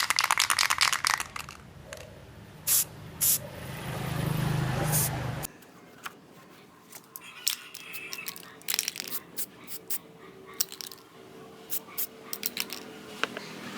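Small metal parts clinking, tapping and scraping during hand work on an old angle grinder. In the first half a humming machine noise builds for about two seconds and cuts off suddenly.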